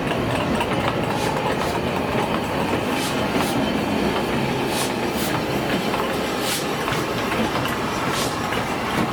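Train running on rails: a steady rumble with the irregular clickety-clack of wheels crossing rail joints.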